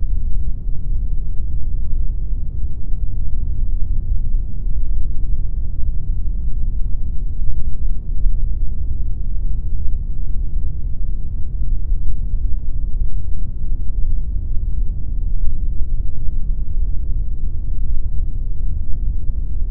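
Steady synthetic noise sold as pink noise for sleep and focus: an unbroken, deep, even rumble-hiss with most of its energy in the bass and little in the treble.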